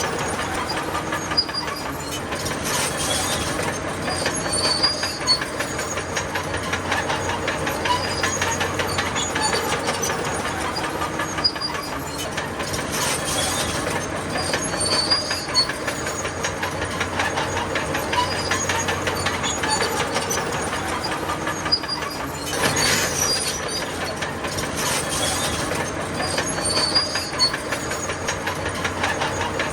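Bulldozer working: a steady diesel engine hum under continuous clanking and rattling of its steel crawler tracks, with a few brief louder surges.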